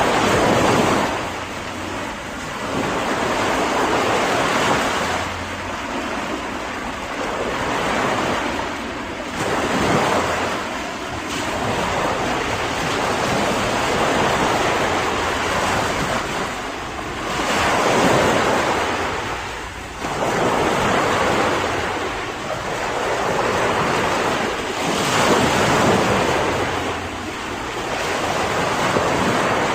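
Ocean surf: waves breaking and washing in, the rushing noise swelling and easing off every few seconds.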